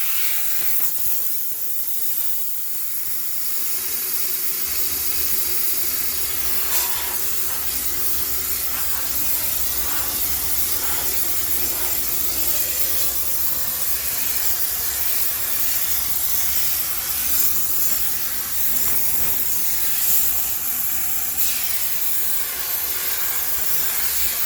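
High-pressure steam sterilizer jetting steam with a steady loud hiss, as a washing machine is cleaned. A low rumble joins about five seconds in, and there are a few light knocks.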